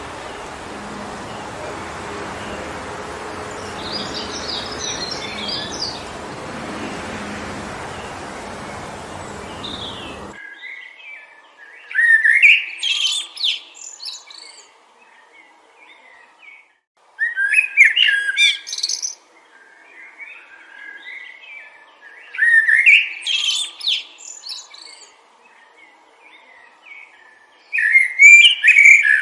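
Wind blowing through a forest as a steady rushing noise, with a few faint bird chirps, for about ten seconds; then the wind cuts off abruptly. A songbird then sings a loud, clear phrase of about two seconds, four times, roughly every five seconds.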